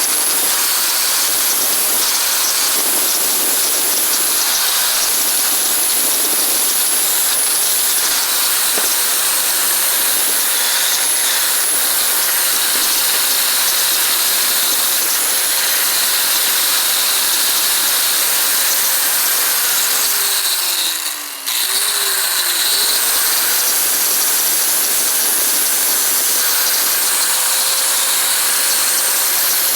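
Electric power tool running steadily with a loud high hiss over its motor hum. About 20 seconds in the motor winds down, cuts out for a moment, and spins back up to speed.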